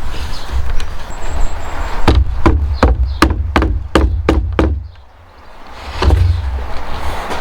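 A quick run of about eight sharp knocks on timber, roughly three a second, with one more knock about six seconds in, over a steady low rumble.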